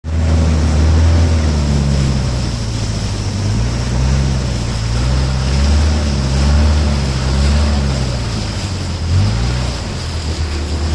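Motorboat engine running against river rapids, its pitch rising and falling over and over, over the rush of water.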